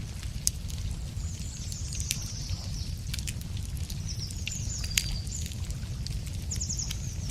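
Wood fire crackling with irregular sharp pops, the loudest about five seconds in, over a steady low rumble. A small songbird sings three short, high trilled phrases.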